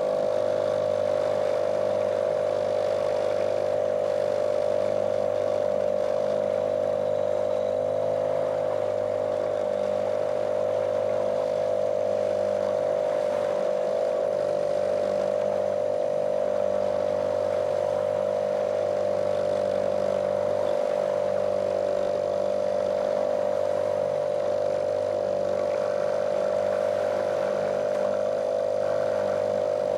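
Small motorboat's motor running at a steady speed: a monotonous drone whose pitch holds steady throughout.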